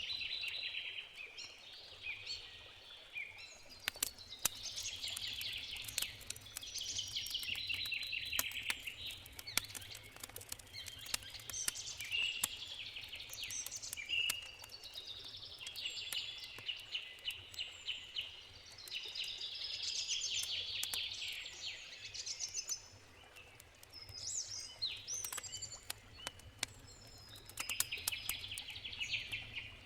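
Songbirds singing and chirping almost without pause, over the sharp crackles and pops of a burning wood campfire.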